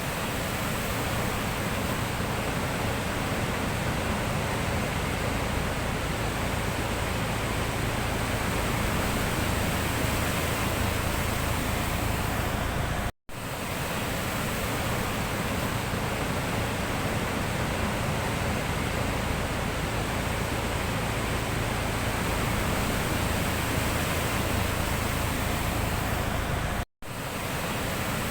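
Steady, even roar of sea surf, with no distinct wave breaks standing out. It cuts to silence for a split second about 13 seconds in and again near the end.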